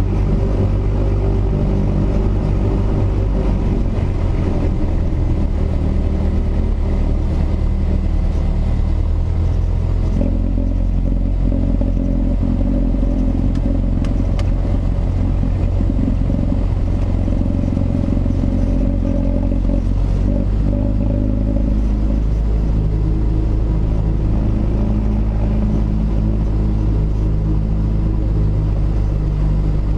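Cessna 172S's four-cylinder Lycoming engine and propeller running steadily, heard inside the cabin as a loud low drone; the engine note changes about a third of the way in and again about two-thirds through.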